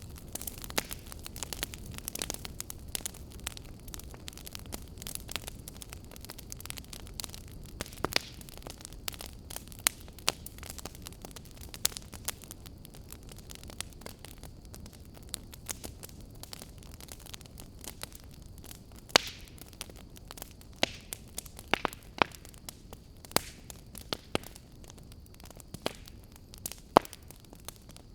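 Wood fire burning in a fireplace, crackling steadily with irregular sharp pops, a few of them louder.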